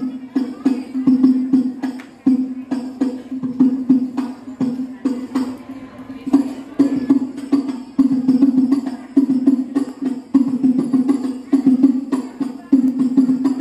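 Music played loud through a 10,000-watt sound system under test: a fast rhythmic track with a pulsing low note and sharp percussion hits.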